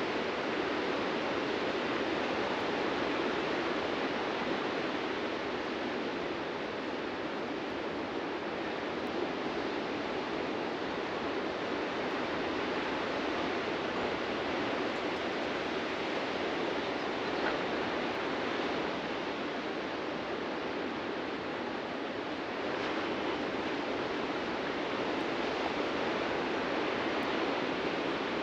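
Ocean surf washing on a beach: a steady rush of breaking waves that eases slightly in the middle and swells again about 23 seconds in.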